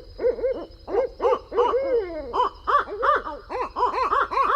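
Owls hooting: a rapid run of short hoots, quickening toward the end, with a couple of longer calls that slide down in pitch.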